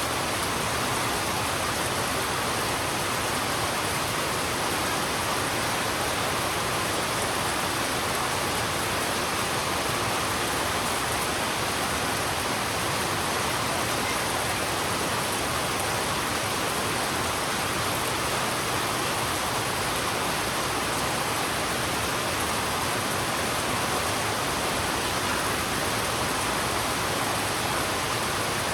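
Heavy rain falling steadily on a road, an even unbroken hiss of water.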